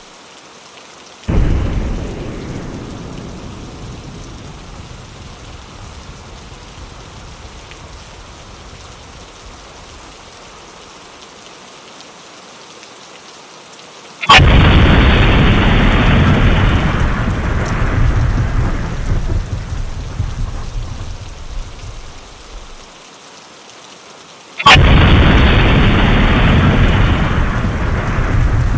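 Steady rain with three thunderclaps: a softer one about a second in, then two loud ones about 14 and 25 seconds in, each a sharp crack followed by a long rumble that fades over several seconds.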